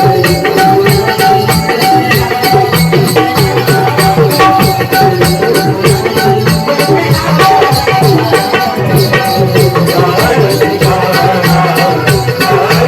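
Konkan naman folk music: a steady drum beat with jingling small cymbals keeping a fast, even rhythm, over a held instrumental tone and a moving melody.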